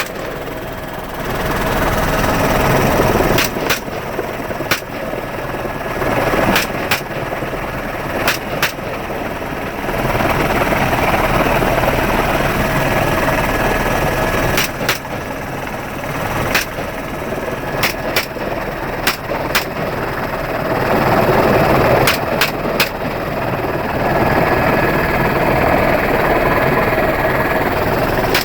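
Semi-automatic .223 rifle fired from a helicopter in flight: about fifteen single shots at irregular spacing, some in quick pairs or triples, over the steady drone of the helicopter's engine and rotor.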